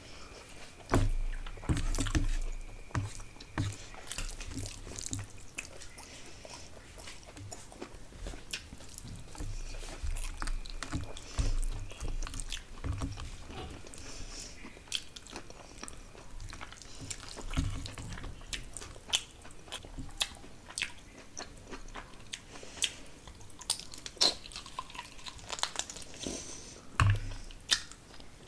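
Close-miked eating: chewing and biting of fish curry and rice eaten by hand, with many irregular sharp wet clicks and a few louder bites.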